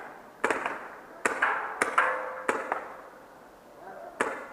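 Paintball markers firing: about eight sharp pops at uneven intervals, each trailing off in a short echo, with faint shouting mixed in around the middle.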